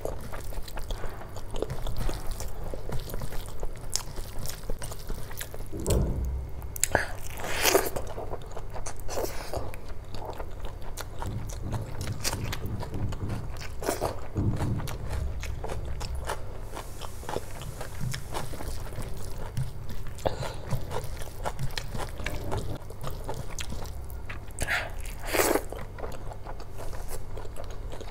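Close-miked chewing of chicken curry and rice: steady wet mouth noises with many small clicks and lip smacks, and a few louder wet mouth sounds about a quarter of the way in and again near the end.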